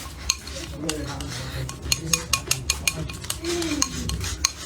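Dishes and utensils clinking: scattered sharp clicks, with a quick run of several about two seconds in, under faint voices.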